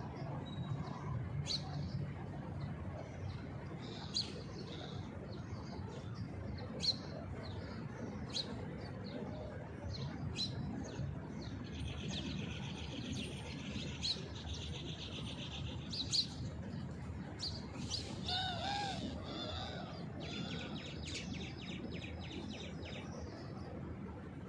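Small birds chirping in the trees: scattered short, high chirps throughout, a rapid trill around the middle, and a few louder, curving call notes about three quarters through, over a low steady background rumble.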